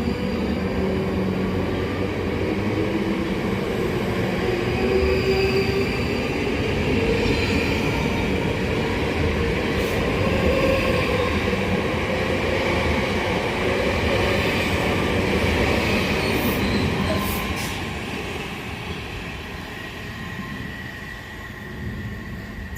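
A South Western Railway electric multiple unit running along the third-rail line past the platform: wheels on the rails with steady tones from its motors and wheel squeal. It fades away over the last few seconds.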